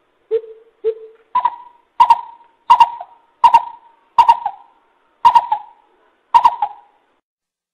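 Coucal (bubut) calling: a series of about nine hollow hoots, the first two lower, the rest stepping up in pitch and repeating roughly once a second or a little faster.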